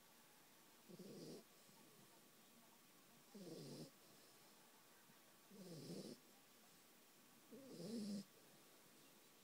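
A dog snoring in its sleep: four short snores about two seconds apart, each lasting about half a second.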